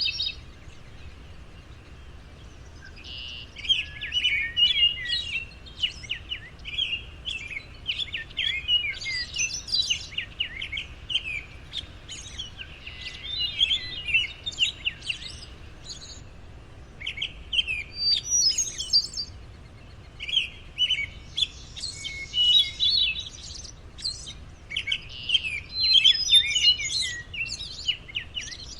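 Small birds chirping and twittering in quick, busy bouts with short lulls between, over a faint steady low rumble.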